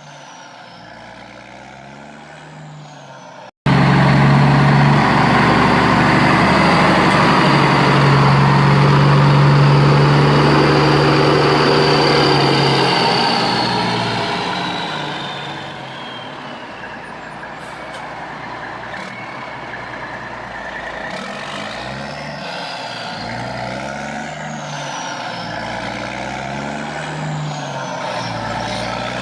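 Heavy truck engine running loud and close, with a high whine that falls in pitch as the noise drops away about halfway through, like a truck moving off. After that a quieter engine keeps running, its pitch rising and falling.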